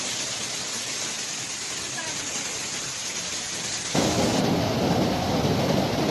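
Heavy rain in a storm, a steady hiss. About four seconds in it cuts abruptly to a louder, deeper rush of rain with a low rumble.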